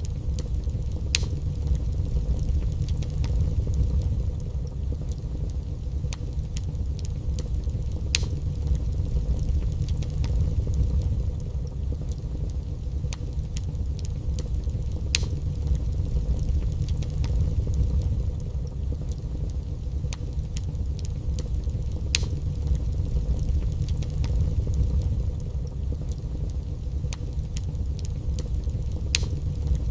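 Wood fire burning in a fireplace: a steady low rumble of flames with sharp crackles and pops every second or two.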